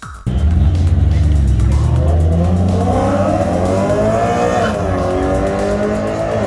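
Car engine revving hard and held at high rpm, its pitch slowly climbing and then dropping about four and a half seconds in; it cuts in abruptly.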